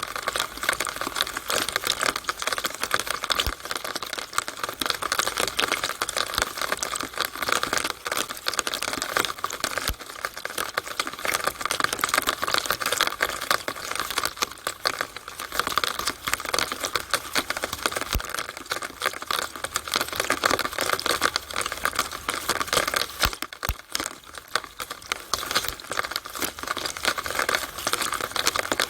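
Rainwater running and dripping inside a downspout on a rainy day: a steady, dense crackle of many small drops and trickles.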